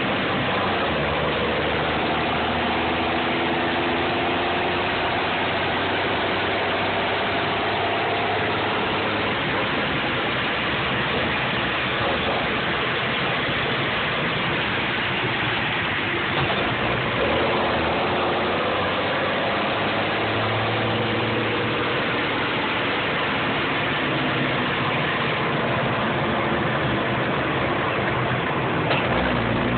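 M35A2 deuce-and-a-half army truck's turbocharged multifuel diesel engine running, its pitch slowly rising and falling several times as engine speed changes.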